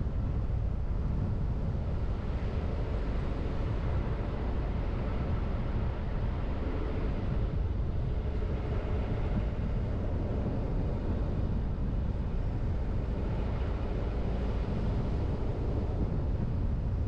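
A car driving: steady low rumble of tyres on the road and the engine.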